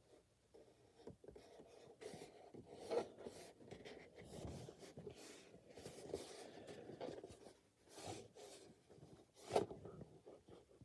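Cardboard model-kit box being handled and turned over: faint rubbing and scraping, with a few sharp taps, the loudest about nine and a half seconds in.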